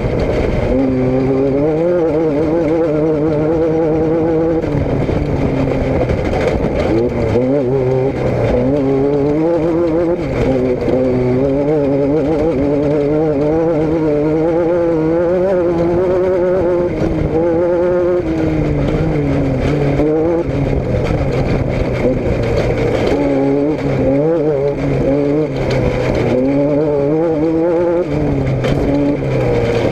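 A car engine running, its pitch rising and falling over and over as the revs change.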